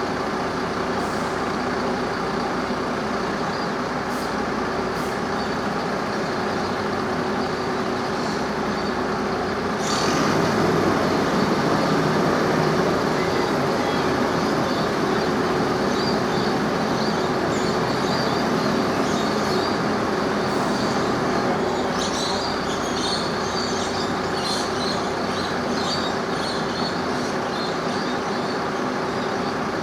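Engine running steadily with a constant hum, getting louder about a third of the way through, with faint high squeaks near the end.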